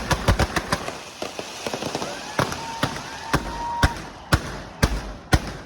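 Fireworks and firecrackers going off: a rapid crackling string of bangs in the first second, then separate loud bangs about every half second, with a short whistle partway through.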